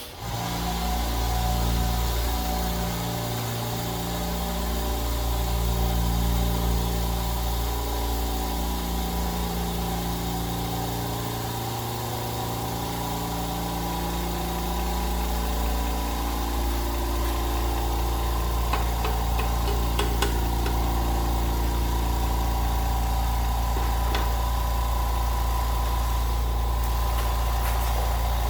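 Low-noise oilless 4.5-horsepower air compressor starting up suddenly and running steadily, its pitch wavering for the first dozen seconds and then settling.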